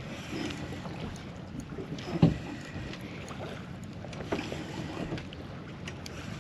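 Wind and water noise around a small anchored boat, with a single thump about two seconds in.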